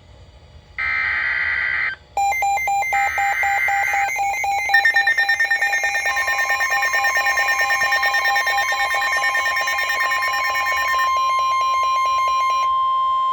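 NOAA Weather Radio alert signals: short buzzy bursts of the SAME digital header, then rapid pulsing electronic alarm beeps. About six seconds in, the long steady single-pitch warning alarm tone begins and carries on, marking a warning about to be read.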